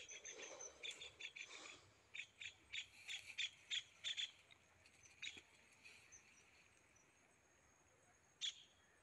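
A bird calling with a quick series of short, high chirps, about three a second, followed by a few single chirps later on.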